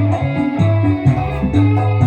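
Electric guitar played through a Valeton GP-200 multi-effects unit, picking a dangdut melody over a backing track with a bass line and steady hi-hat ticks.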